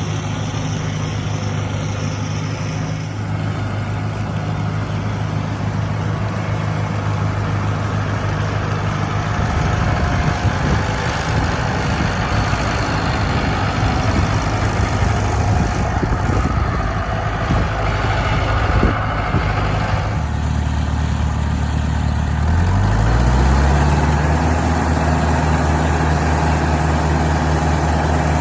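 International Harvester 574 tractor engine running steadily; it gets louder about a third of the way through, then revs up near three-quarters of the way through and holds the higher speed.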